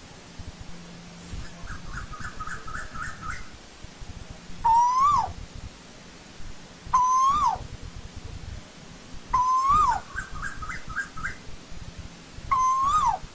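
Asian koel calling: four loud two-part calls, each rising and then dropping sharply, spaced two to three seconds apart. Twice between them comes a quicker run of about seven short, higher notes.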